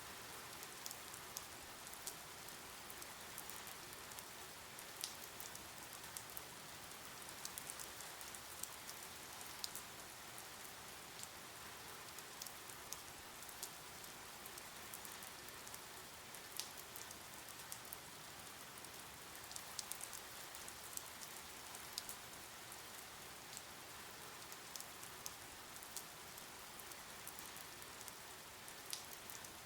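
Steady rain: a soft, even hiss of falling rain with scattered sharp drip ticks.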